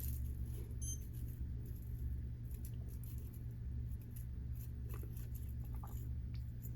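A few faint light clicks of small carburetor parts being handled on a workbench, over a steady low electrical hum.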